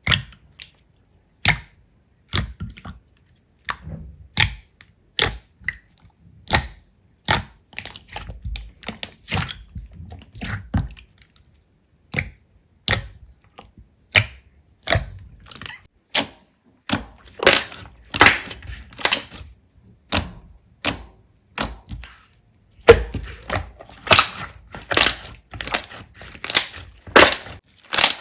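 Slime being pressed and squeezed by hand, giving sharp pops and crackles as air pockets burst. The pops come singly at first and crowd into quick runs, densest near the end.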